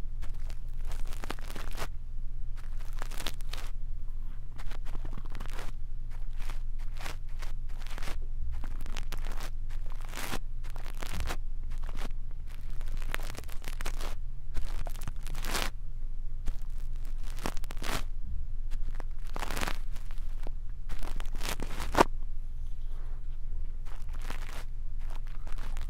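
Brush bristles scratching and rustling on a microphone, ear-cleaning ASMR style, in dense irregular strokes over a faint steady low hum.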